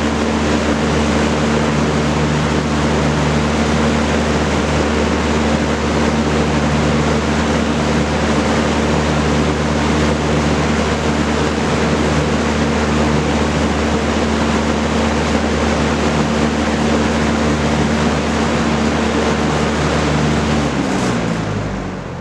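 Vintage Kenmore Roll-A-Matic 20-inch box fan with a four-blade propeller running, a steady rush of air over a motor hum. Near the end the hum drops in pitch and the sound fades as the fan winds down.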